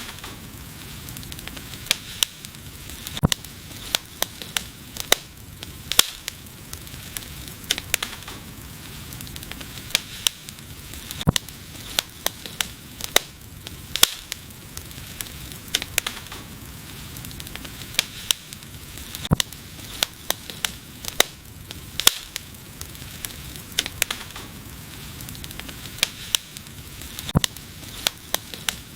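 Wood fire burning in a fireplace: irregular sharp crackles and pops, a few of them loud, over a steady hiss and low rumble of the flames.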